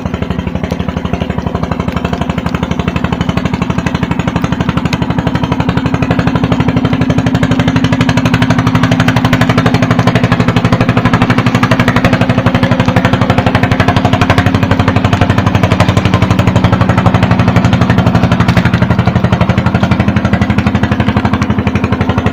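An engine running steadily with a rapid pulsing beat, a little louder from about eight seconds in.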